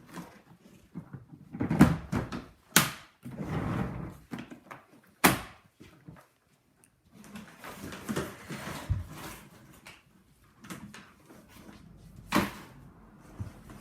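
Irregular knocks and clunks with rustling in between, as cupboard doors or drawers are opened and shut and things are handled during a search of the room; the sharpest knocks come about three, five and twelve seconds in.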